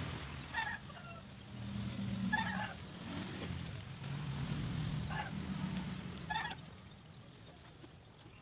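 Short calls of a bird, four times a second or two apart, over a low background rumble.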